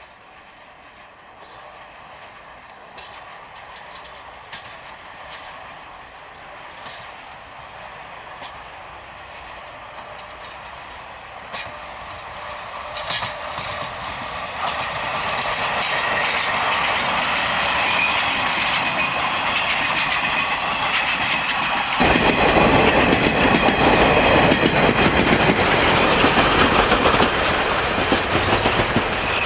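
C12 66 steam locomotive and its train approaching, growing steadily louder, with the wheels clicking over rail joints. About three-quarters of the way through, a much louder, deeper rumble sets in suddenly as the train draws close.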